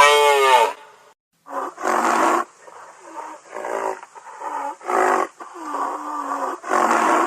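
A large animal calling: one falling, bellowing call, then a run of short, loud, harsh calls about once a second.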